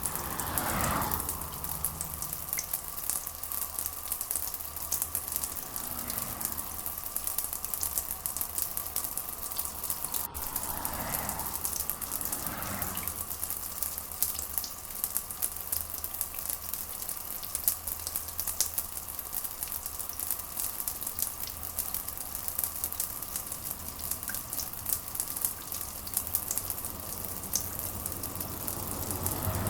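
Steady rain with a dense crackling patter of drops over a low steady hum, with a brief swelling whoosh a little over ten seconds in.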